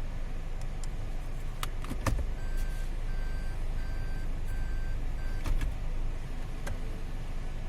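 Inside a Toyota Vellfire/Alphard with a steady low rumble, a few sharp clicks, and a run of five short, evenly spaced electronic beeps from the car about two and a half seconds in.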